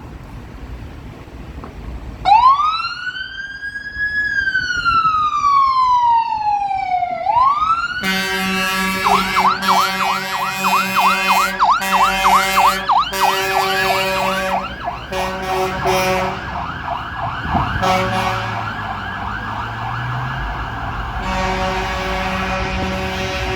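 Fire engine siren starting about two seconds in with a wail that rises and then slides slowly down. From about eight seconds in, loud multi-tone air horns blast repeatedly over a fast yelp. The horns sound on steadily near the end.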